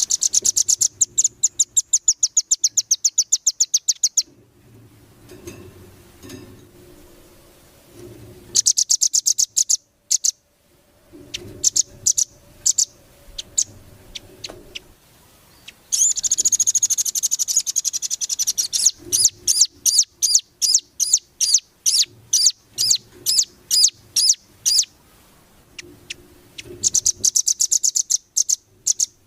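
Songbird singing fast trills of sharp high notes in bursts of a few seconds, with scattered single chirps between the bursts, a masteran tutor song of the kind played to teach caged songbirds.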